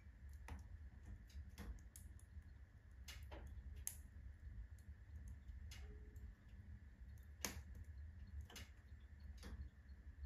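Firewood burning in a fully loaded wood-burning stove: faint, irregular crackles and pops from the burning logs, the sharpest about four seconds in and again at seven and a half, over a steady low rumble of the fire.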